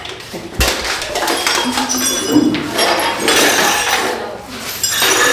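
Household objects being handled and moved in a small room: a knock about half a second in, then clinks and knocks, with faint voices.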